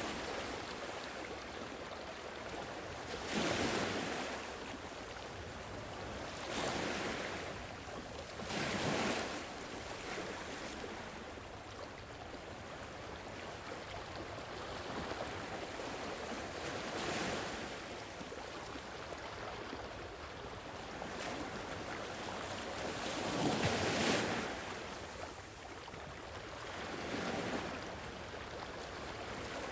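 Sea waves breaking and washing up, a louder wave swelling and fading every few seconds over a steady rush of surf.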